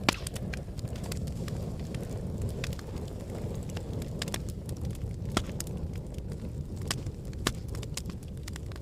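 Wood fire in a fireplace burning with a low steady rumble and scattered sharp crackles and pops, one louder pop just after the start.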